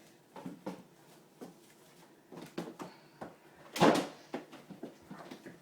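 Knocks and clunks of a refrigerator's door and shelves being handled, a dozen or so short hits with one louder bang about four seconds in.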